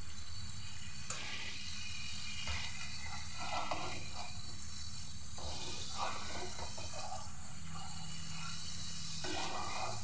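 Spice paste sizzling in hot mustard oil in a nonstick pan as it is stirred and spread with a spatula, at the stage where the masala is fried until the oil separates.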